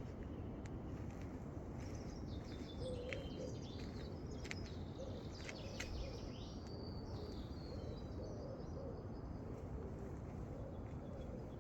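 Small birds chirping and trilling, with many short high calls, thickest in the middle of the stretch, over a steady low background rumble.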